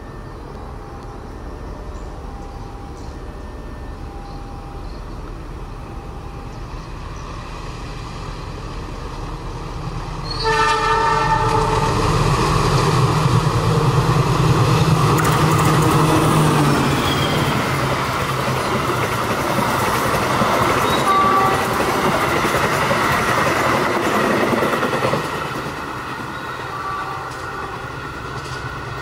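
Diesel-electric locomotive hauling a passenger train: its engine rumble grows as it approaches, a short horn blast sounds about ten seconds in, then the train passes close by with loud engine and wheel-on-rail noise for about fourteen seconds. Near the end the sound drops to the quieter rolling of the coaches over the rails.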